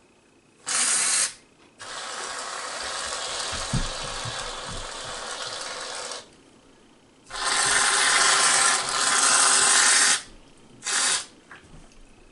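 Aerosol can of whipped cream spraying in four hissing bursts: a short one, a long one of about four seconds, a louder one of about three seconds, and a last short one.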